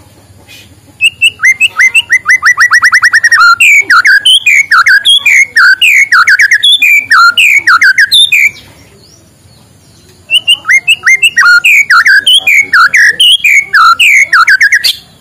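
White-rumped shama (murai batu) singing loudly in two long bouts of rapid whistled phrases with a short pause between them. The first bout opens with a fast run of repeated rising notes, then quick notes that slide up and down.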